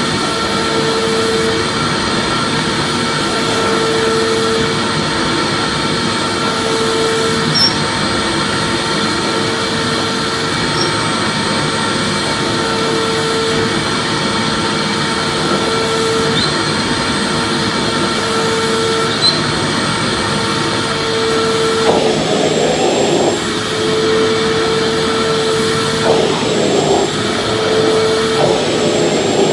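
Vacuum cleaner running steadily: a loud, even rushing hum with a mid-pitched tone that comes and goes every second or two. There are a few rougher, uneven patches in the last several seconds.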